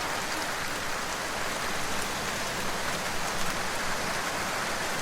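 Steady rainfall: an even hiss of rain with faint scattered drop patters.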